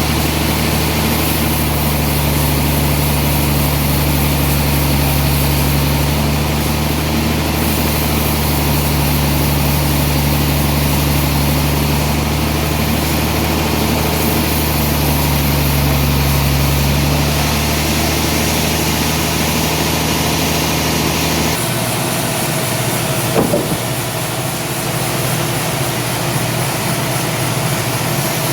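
Sawmill machinery running steadily with a deep hum; about three-quarters through the deep hum cuts off abruptly and a lighter machine running sound carries on.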